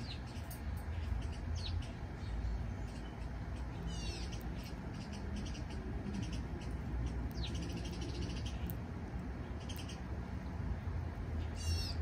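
Backyard songbirds calling in short, high, sweeping phrases every couple of seconds, over a steady low rumble.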